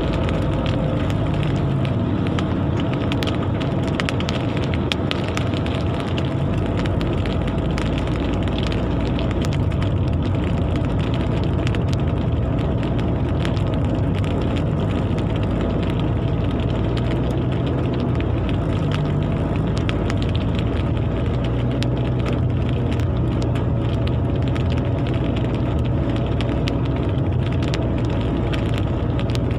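Steady rain falling on glass: a constant hiss scattered with many small ticks of drops, over a steady low hum.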